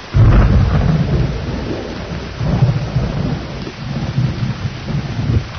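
Steady rain with thunder breaking in suddenly just after the start, then a long, deep rumble that swells again twice.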